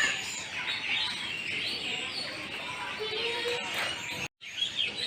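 Many birds chirping and calling over one another, a dense chorus of short high chirps and whistles. The sound cuts out briefly about four seconds in.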